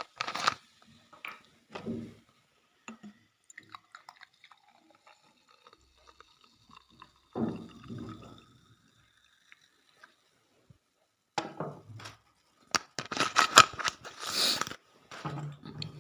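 Dahi puri being handled on a plate: scattered clicks and clinks of dish and utensil with wet, pouring sounds of curd and liquid, and a dense crackly burst near the end.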